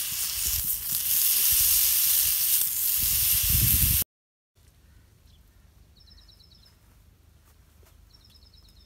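Chicken steak sizzling loudly on a hot grill pan, pressed down with a spatula. About four seconds in it cuts off to a quiet outdoor background where a small bird gives a quick trill of high chirps, twice.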